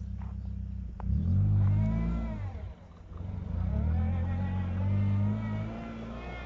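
Proton Wira race car's engine revving up twice, the pitch rising and falling with each surge, then settling back to a lower steady run.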